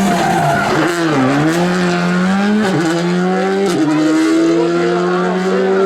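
Rally car engine running hard. Its revs dip about a second in, then climb as it accelerates away, with two upshifts a second apart.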